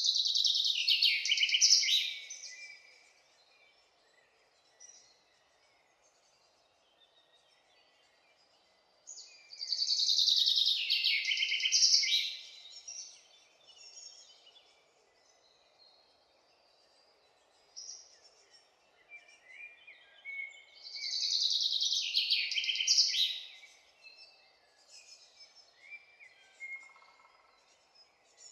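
A songbird singing three loud, high-pitched song phrases, each about two and a half seconds long and about ten seconds apart, with softer chirps between them over a faint steady background hum.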